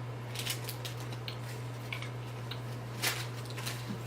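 Faint scattered mouth clicks and soft squishing from people chewing a sticky, gooey panela candy, with one slightly louder click about three seconds in. A steady low hum runs underneath.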